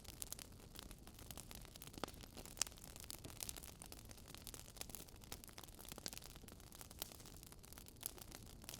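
Wood fire crackling faintly, with irregular small sharp pops from the burning logs over a low steady hiss.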